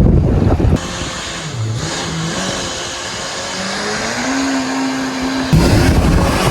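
Jet car boat's engine speeding up, its pitch climbing steadily and then holding, with loud wind noise on the microphone at the start and again near the end.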